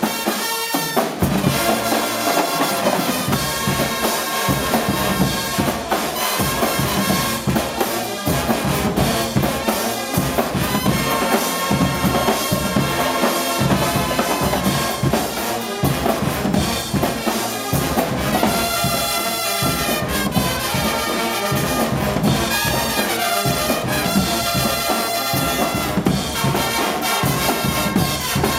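A Swiss Guggenmusik carnival band plays loudly. Massed trumpets and trombones carry the tune over a steady beat of bass drum and drum kit.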